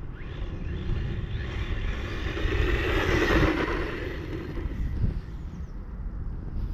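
Wind buffeting the microphone, with a 1/18-scale electric RC truck driving on grass. Its motor and tyres swell loudest about three seconds in, then fade.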